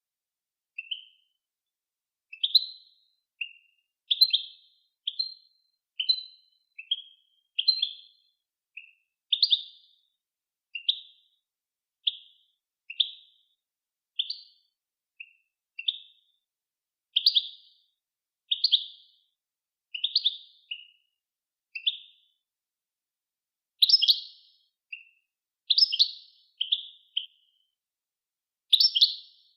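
A songbird's short, clear chirps, one or two at a time roughly every second, with silence between them and a little louder towards the end: a recorded song-tutoring tape for teaching cage birds their song.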